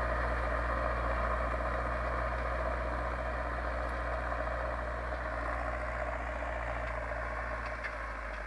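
Zetor 7245 tractor's four-cylinder diesel engine running steadily while ploughing, growing slightly quieter toward the end.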